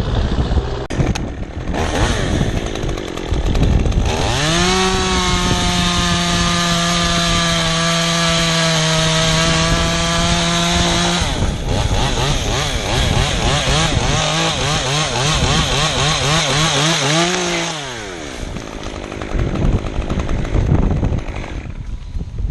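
Chainsaw engine revved up about four seconds in and held at full throttle, then its pitch wavers as it works through a cut in wood before the throttle is let off and it drops back.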